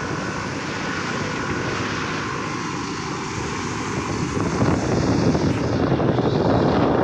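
Traffic noise from vehicles driving at speed on a highway: a steady rush of engine and road noise that grows louder about halfway through.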